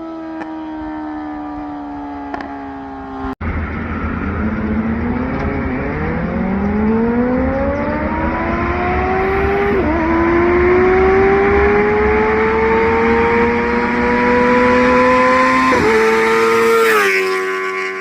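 Kawasaki ZX-6R's inline-four engine through an IX Race aftermarket exhaust. It first winds down in pitch, then pulls hard through the gears: the pitch climbs steadily, drops sharply at an upshift about ten seconds in, climbs again, and drops at another shift near the end.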